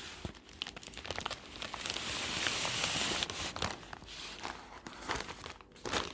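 Plastic packaging crinkling and crackling as it is handled and opened by hand, with a longer hiss about two seconds in.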